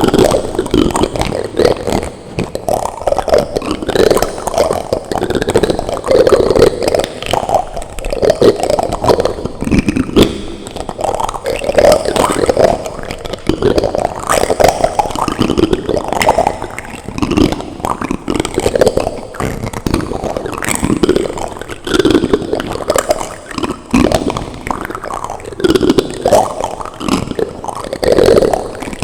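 Plastic utensils rubbed and scraped directly against a microphone: an unbroken run of close, irregular scratching and rubbing strokes, about one a second.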